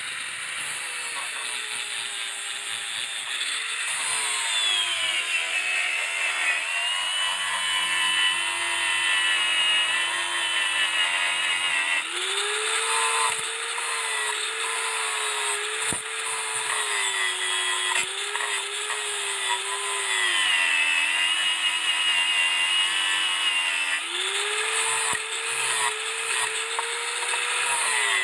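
Handheld electric power tool running continuously, its motor pitch sagging as it is pressed into the work and rising again when eased off, twice.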